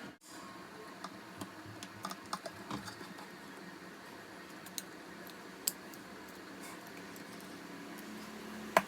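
Scattered small clicks and taps from handling laptop parts while the cooling fan is fitted back in, with a sharper click near the end.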